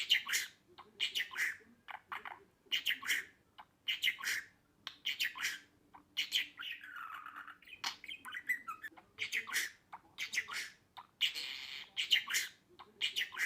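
Budgerigar chattering: a run of short, sharp chirps about one or two a second, with a longer warbling phrase around the middle.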